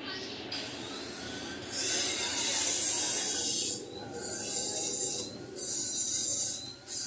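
Hissing spray or air jet in bursts. The first runs about two seconds, then it comes on and off in shorter bursts of about a second each.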